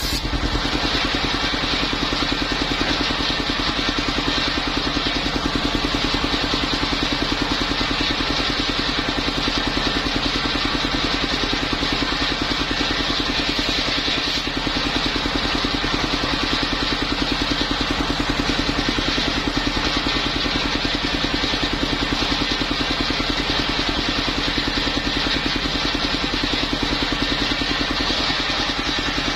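The engine of a mobile circular-saw mill running steadily with a fast, even pulse, together with a constant high whine from the spinning saw.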